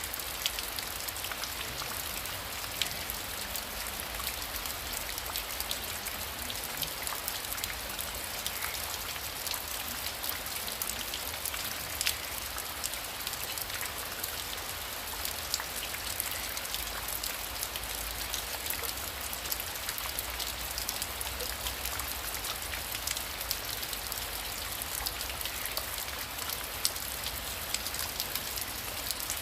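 Heavy rain falling steadily, with many single drops ticking sharply close by.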